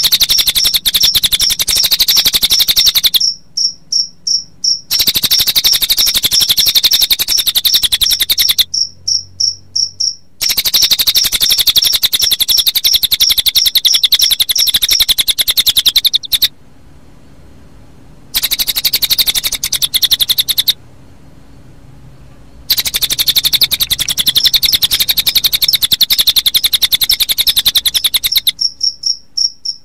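Recorded cililin bird song layered with cricket chirping, played as a looped training track: a rapid high trill over a regular pulsing chirp. The trill breaks off now and then, leaving the pulsing alone, and twice the sound cuts out for about two seconds.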